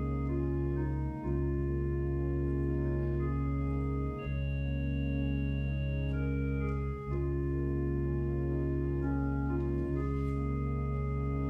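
Organ playing slow, sustained chords over a steady held bass note. The chords change every few seconds, with brief breaks between phrases.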